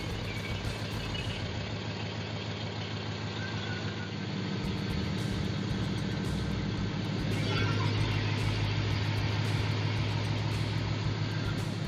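Swapped-in 5.3 LS V8 with glass-pack dual exhaust idling steadily shortly after a cold start. It grows a little louder about four seconds in.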